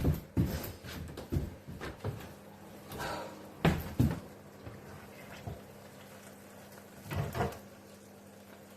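Irregular knocks and clunks of hard objects being handled and set down, with the loudest pair about four seconds in and another cluster near the end.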